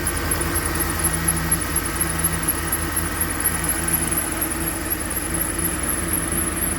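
Ford Explorer's 4.6-litre V8 idling roughly, not running smoothly, with a steady high-pitched whine over it.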